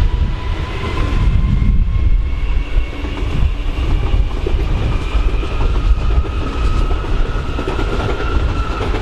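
Train moving through a station, a heavy rumble with wheels clattering over rail joints, and a high whine over it that rises slightly in pitch.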